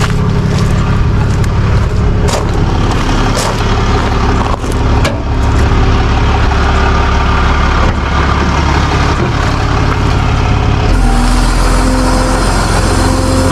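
Truck engine running steadily during a vehicle recovery, with scattered clicks and knocks in the first five seconds; the engine note changes about eleven seconds in.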